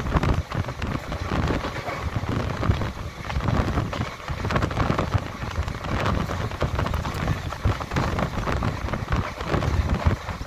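Passenger train running at speed, heard from inside the coach: a steady low rumble from the wheels on the track, with gusty wind buffeting the microphone at the window.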